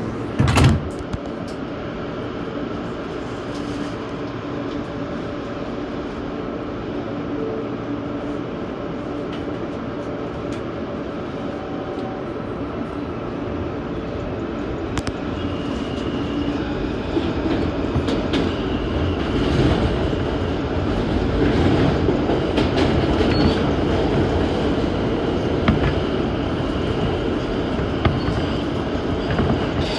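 New York City Subway A train running on the rails, a continuous rumble that swells about twenty seconds in. A sharp bang sounds right at the start.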